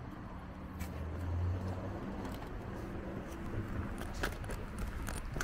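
Parking-lot sound: a car engine running with a steady low hum that swells about a second in, with a few sharp clicks and rattles, like a shopping trolley or a car's boot being loaded.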